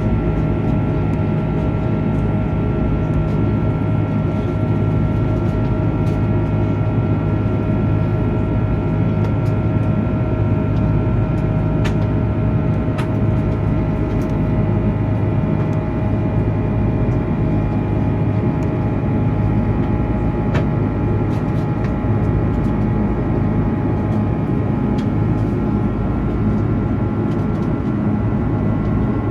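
Cabin noise of an Airbus A330-300 climbing after take-off: the steady roar of airflow and its Rolls-Royce Trent 700 engines, with several steady whining tones over it and a few faint ticks.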